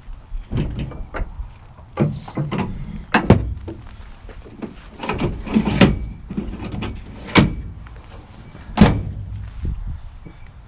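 Irregular clunks and knocks from the bed and tailgate of a pickup truck, about eight in all, the loudest near the end.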